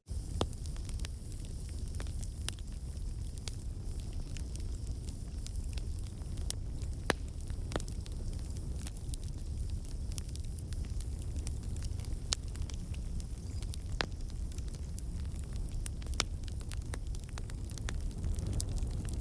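Campfire of burning logs crackling: a steady low rumble of flames with sharp pops and snaps at irregular moments, a few of them louder than the rest. The snaps come from water and sap trapped in the wood turning to steam and bursting out.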